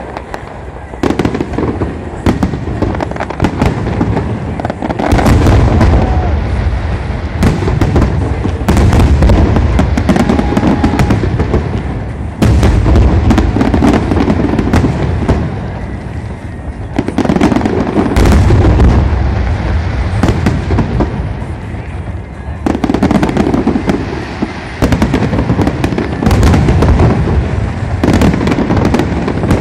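Aerial fireworks display: shells bursting in dense barrages, sharp cracks over a continuous deep rumble, coming in waves of several seconds with short lulls between.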